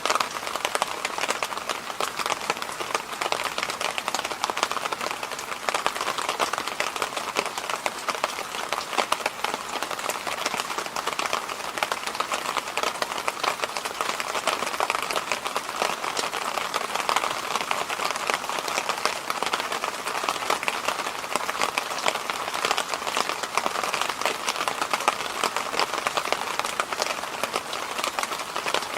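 Electric fan running continuously: a steady rushing noise with a dense, fine crackling texture and no change in speed.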